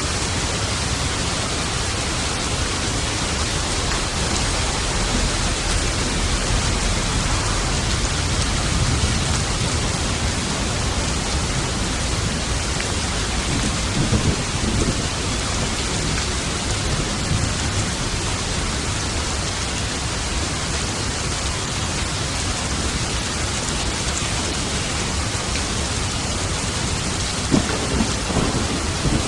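Steady heavy rain with thunder rumbling low underneath, and louder thunderclaps about halfway through and again near the end.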